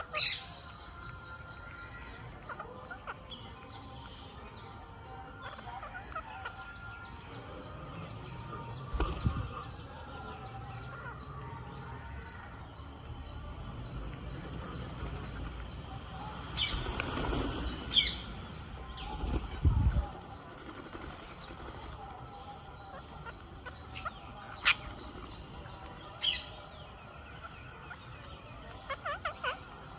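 Rose-ringed (Indian ring-necked) parakeets flapping their wings and giving a few short, sharp calls, loudest near the start and again about two-thirds of the way through.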